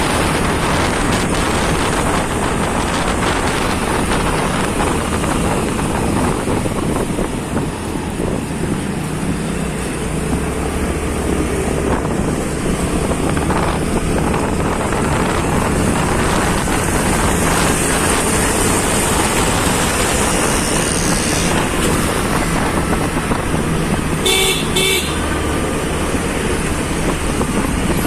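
Steady engine and road noise of a moving vehicle in traffic, with a vehicle horn sounding in a quick run of short beeps about 24 seconds in.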